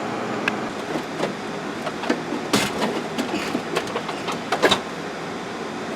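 Scattered clicks and knocks of plastic car-interior parts being handled and fitted, a louder clatter about two and a half seconds in and again near the end, over a steady background hum.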